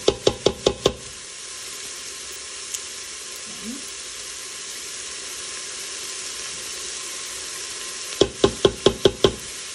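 Chopped fennel and onion sizzling in oil in an Instant Pot's inner pot on sauté. Twice, at the start and again about eight seconds in, a quick run of about six sharp knocks against the pot, roughly six a second.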